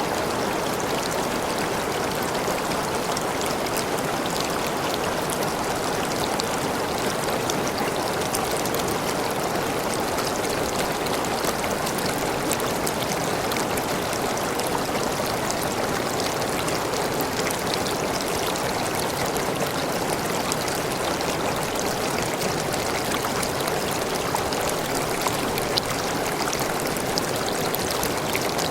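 Waterfall splashing and rushing steadily, with small splashes and drips ticking through the constant noise.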